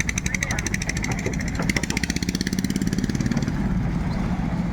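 Longtail boat engine running with a rapid, even pulsing over a low hum. The pulsing quickens around the middle and fades out a little past halfway, leaving the steady hum.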